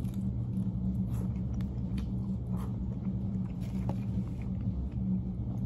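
Person chewing and biting into barbecue-sauced chicken wings, a few faint short clicks of eating, over a steady low hum that is the loudest thing present.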